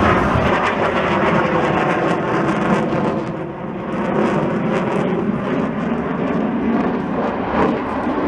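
Airplane engines of aircraft flying a low pass: loud, steady engine noise that dips briefly about three and a half seconds in, then rises again.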